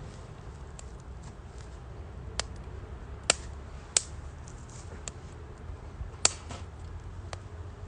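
Wood fire crackling in a UNIFLAME Nature Stove Large fire pit: a few sharp, irregular pops, the loudest about three and four seconds in and again just past six seconds, over a low steady rumble.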